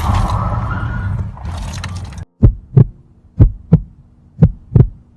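Car interior road and engine noise that cuts off abruptly about two seconds in. It gives way to a heartbeat sound effect: paired thumps, lub-dub, about once a second over a faint hum.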